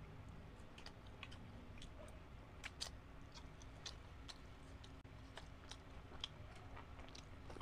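Quiet close-miked chewing and biting of grilled chicken isaw off a bamboo skewer: a run of small wet clicks and smacks, one louder bite about three seconds in, over a low steady hum.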